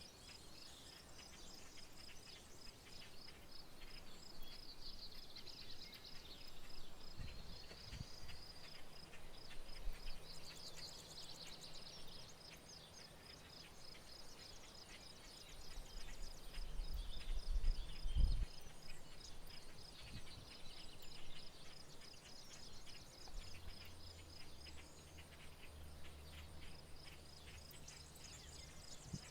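Rural outdoor ambience: a steady high-pitched pulsing trill with many short bird chirps over it, and a low rumble that swells a few times.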